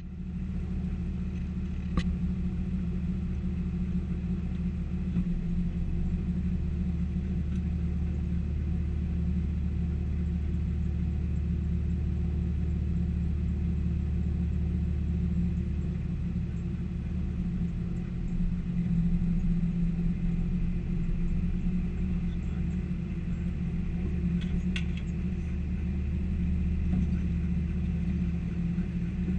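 P38 Range Rover engine running steadily at low revs, a constant low rumble heard from inside the cabin, with a couple of brief clicks.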